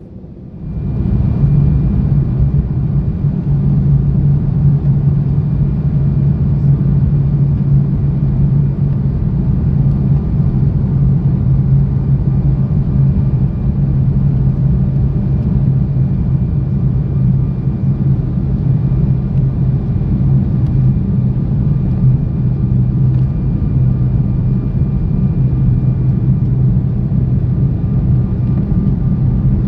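Cabin noise inside an Embraer E170 airliner on approach: the steady drone of its turbofan engines and rushing air, with a strong low hum and a faint high whine. It fades in about a second in and holds unchanged.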